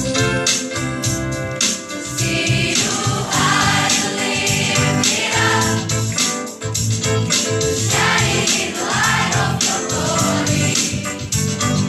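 School choir singing in several parts over instrumental accompaniment.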